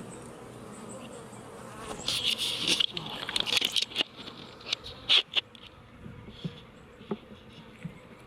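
Honey bees buzzing around an opened hive, with a loud scraping, rustling stretch of handling noise and then several sharp knocks.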